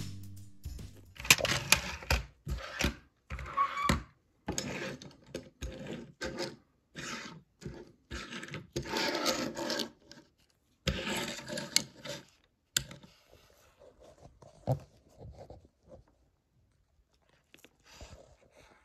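Rubbing and scraping handling noises from unboxing a diecast model car: irregular bursts of packaging and the toy being handled, thinning out and growing fainter after about thirteen seconds.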